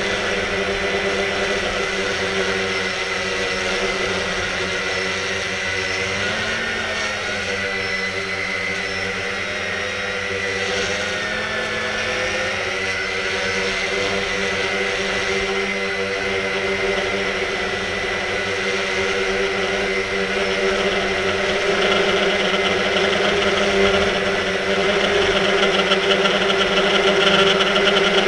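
Quanum Nova quadcopter's motors and propellers whining steadily in flight. The pitch wavers up and down between about six and thirteen seconds in, and the sound grows a little louder near the end.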